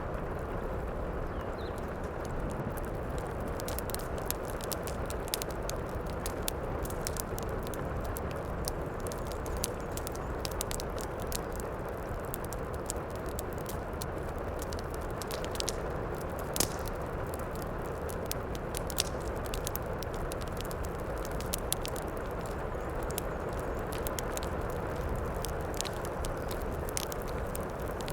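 Wood fire crackling in a fireplace, with frequent sharp pops and snaps and one louder pop about two-thirds of the way through, over a steady low rush of heavy rain.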